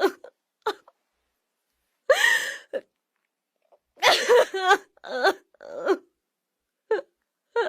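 Short vocal cries and whines in separate bursts, one with a quickly wavering pitch about four and a half seconds in, with dead silence between them.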